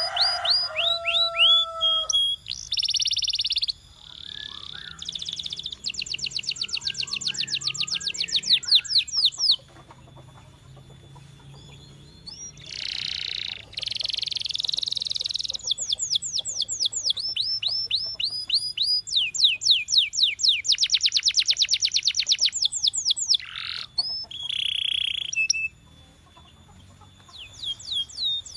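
Domestic canary singing: fast trills of repeated, quickly falling notes and dense buzzy rolls, phrase after phrase with brief pauses between them.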